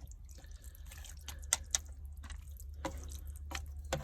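Pot of beef goulash bubbling on the heat, giving irregular small pops and plops over a steady low hum.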